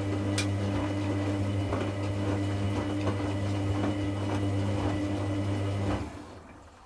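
Washing machine drain pump running with a steady mains hum as the rinse water is pumped out, then stopping about six seconds in.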